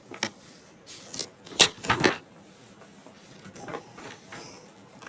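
A series of irregular sharp knocks and clacks, several bunched together in the first two seconds and a few more scattered later, like hard objects being handled or knocked together.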